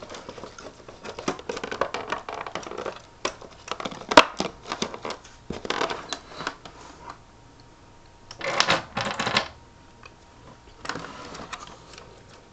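Plastic housing and parts of a cordless stick vacuum being handled and worked apart by hand: irregular clicks, rattles and scraping, with one sharp click about four seconds in and a burst of rattling around eight to nine seconds.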